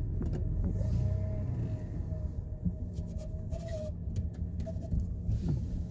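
Pickup truck engine running, heard from inside the cab as a steady low rumble, with a faint wavering whine above it and a few light clicks.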